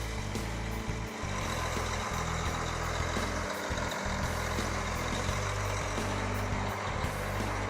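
Diesel engine of a Case IH STX500 QuadTrac tractor running steadily.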